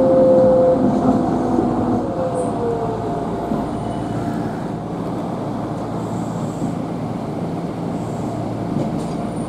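Kintetsu train heard from inside the passenger cabin as it brakes into a station: a drive whine that falls in pitch over the first few seconds as the train slows, then a steady low cabin rumble and hum.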